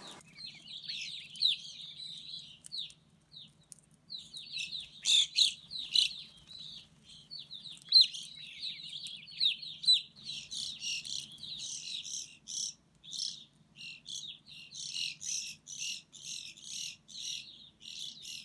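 Songbirds chirping: a dense run of quick chattering notes, then from about halfway through a steady series of short chirps, roughly two a second.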